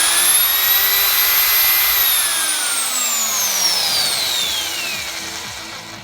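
Проалмаз Pro 202 EL diamond-core-drilling motor running unloaded with a high whine. It finishes spinning up to full speed, holds for about two seconds, then is switched off and winds down, the whine falling in pitch until it fades near the end.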